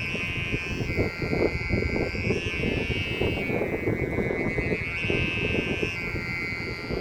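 Strong wind buffeting the microphone, an uneven gusty rumble, with a high tone that wavers slowly up and down over it.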